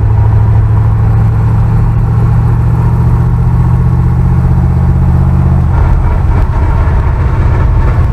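Truck engine running steadily while under way, a loud low drone that changes pitch about six seconds in.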